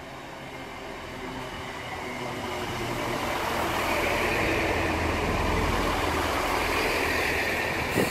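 A Great Western Railway diesel multiple unit passes through the station without stopping. Its engine rumble and wheel and air noise build steadily to a peak as the cars go by, with a sharp knock at the very end.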